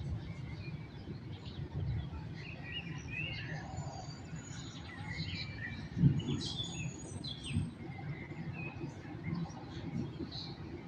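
Songbirds chirping and twittering in short calls over a steady low rumble, with a brief low thud about six seconds in.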